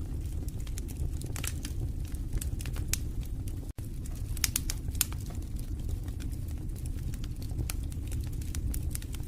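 Wood fire burning in a fireplace: a steady low rumble of flames with frequent sharp crackles and pops of burning logs. The sound cuts out for an instant a little under four seconds in.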